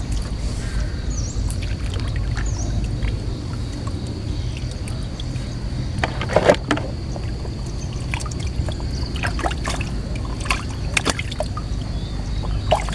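A small boat's motor runs steadily with a low rumble. Over it come a few short splashes and knocks of water and line handling, a cluster about halfway through and more near the end.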